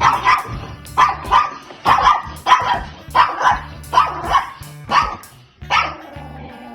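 A dog barking repeatedly, about two short barks a second, with a pause about five seconds in and one last bark after it, over background music.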